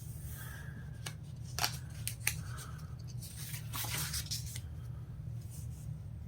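Light handling noises: a few scattered clicks and short rustles, with a cluster of them a little before the middle, over a steady low hum.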